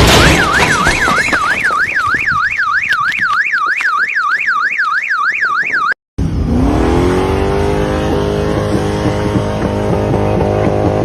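An electronic alarm warbles rapidly up and down, about three to four sweeps a second, just after a crash. It breaks off about six seconds in, and a vehicle engine revs up, then runs steadily.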